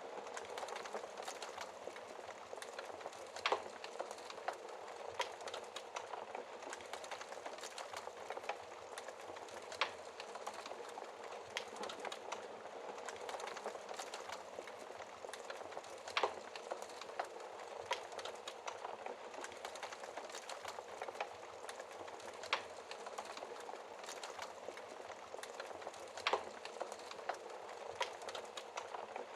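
Wood fire crackling behind a fireplace's glass shield: a steady hiss of burning with many small crackles and five louder pops spread through.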